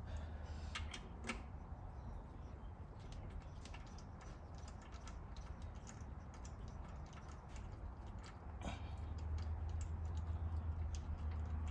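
Irregular light clicking and ticking of hand tools on the intake manifold bolts of a 3.8L V6 engine, with a steady low hum underneath that grows louder near the end.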